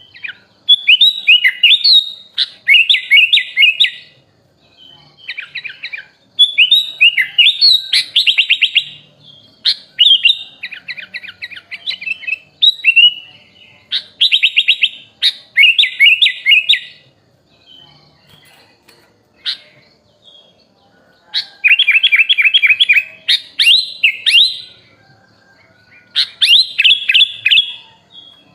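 Sooty-headed bulbul (kutilang) singing: quick bursts of chirped, trilled whistling phrases repeated one after another, with a lull of a few seconds past the middle.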